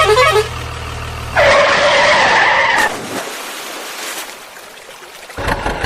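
Vehicle noise with a loud, steady screech lasting about a second and a half, then a rushing noise that fades. A short musical jingle ends just at the start, and music comes in near the end.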